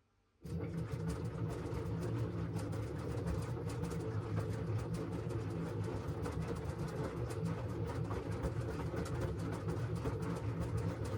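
LG washing machine's drum turning and tumbling the load: a steady rumble with dense rattling clatter. It starts suddenly about half a second in and stops abruptly at the very end.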